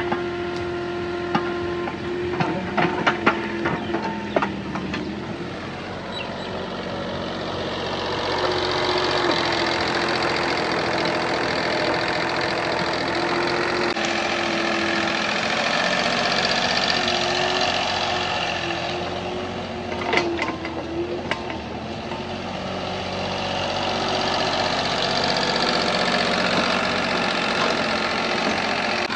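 An engine running steadily, with a few sharp clicks in the first few seconds and again about two-thirds of the way through.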